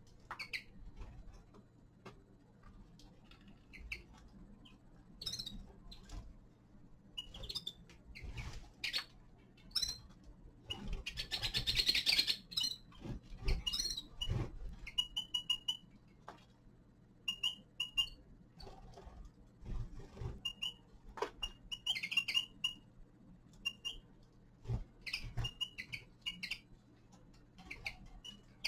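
Small caged finches giving short, scattered chirps and calls, mixed with light clicks and low knocks. A longer, denser burst of sound comes around the middle.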